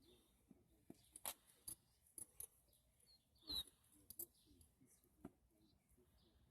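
Near silence, broken by a handful of faint, scattered clicks and taps.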